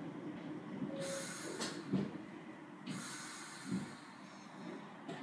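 Train running slowly into a station and braking, heard from inside a carriage: a low running rumble with two spells of hissing and a few clunks as it slows.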